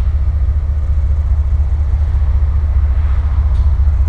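Diesel locomotive engine running, a steady low rumble.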